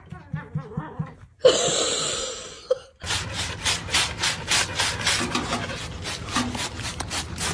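A sudden loud rushing noise about a second and a half in, lasting about a second and a half, then rhythmic scratching or rubbing strokes at about three to four a second.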